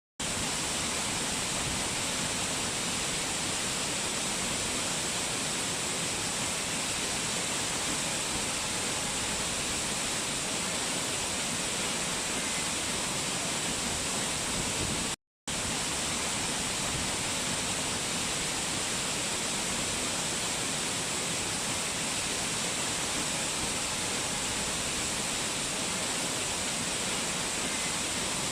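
Rushing mountain water, a steady, even hiss with no change in flow, cutting out for an instant about halfway through.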